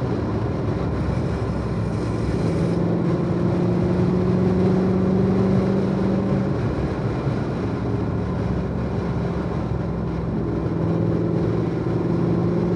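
Chevrolet Corvette C7 Z06's supercharged V8, heard from inside the cabin, running at a light, low-rpm cruise with road noise underneath. Its note climbs slowly in pitch twice as the car gently picks up speed: once a couple of seconds in, and again near the end.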